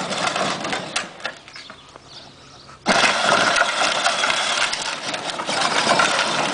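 A child's ride-on toy truck's electric drive and wheels running, with a rough, grinding noise. It dies down about a second in, then starts again abruptly about three seconds in.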